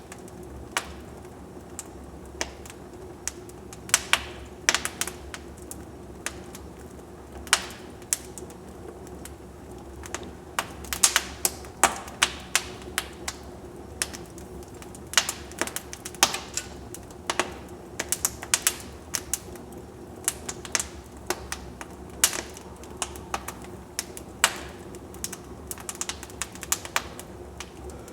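Wood fire in a fireplace crackling: irregular sharp snaps and pops from the burning logs, some in quick clusters, over a steady low hiss.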